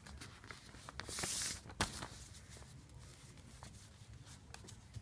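A sheet of paper being folded and creased by hand: a brief swish of paper sliding a little after a second in, a sharp crackle just before two seconds, then faint scattered paper clicks.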